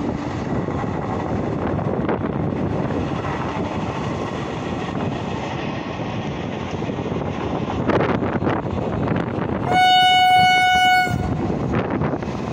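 Amrit Bharat Express train, led by a WAP-5 electric locomotive, running on the track with a steady rumble of wheels on rails. Near the end the locomotive sounds one horn blast of about a second and a half, a single steady note.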